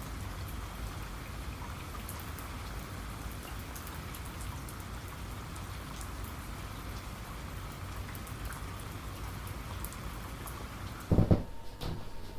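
Steady rain-like noise with scattered faint ticks, which stops about eleven seconds in; a loud dull thump and a few clicks follow.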